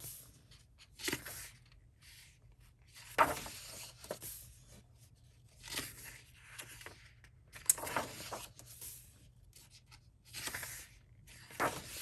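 Thick, smooth paper pages of a paperback coloring book being turned one after another. Each turn is a short swish or rustle with a sharp flick, coming about every one to two seconds.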